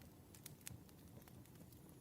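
Campfire crackling faintly: irregular sharp pops, a few a second, over a low rumble of the burning fire.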